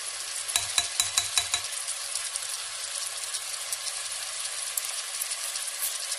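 Chicken pieces and sliced onions sizzling steadily in hot oil in a pot, with a quick run of spatula knocks and scrapes against the pot about half a second in.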